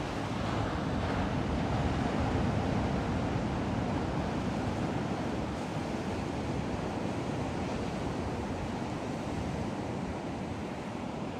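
Ocean surf washing ashore in a steady rush, with wind blowing across the microphone; it swells a little a second or two in.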